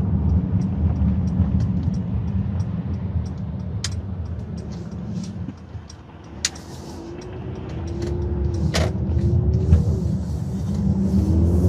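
2018 Mercedes-AMG GLC 43's twin-turbo V6 and tyre rumble while driving. The rumble eases to a lull about six seconds in, then the engine note climbs as the car accelerates, dipping once near nine seconds at an upshift.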